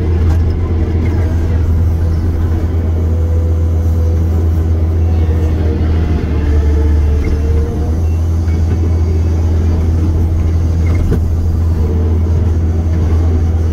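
Heavy-equipment diesel engine running steadily under work, a loud deep drone that swells briefly about halfway through.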